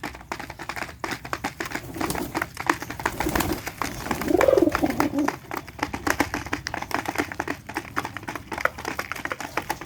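Pigeons cooing, with the loudest coo rising and falling about four and a half seconds in, among many short clicks and taps.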